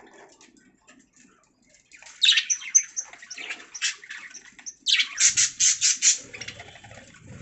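Budgerigars chirping and squawking: soft chatter at first, a loud run of quick, high chirps about two seconds in, then a louder rapid series of chirps around five seconds in.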